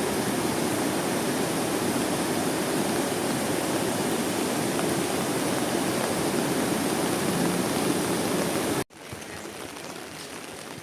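Steady rushing water from heavy rain. It cuts off suddenly near the end, leaving a much quieter rain hiss with a few scattered drips.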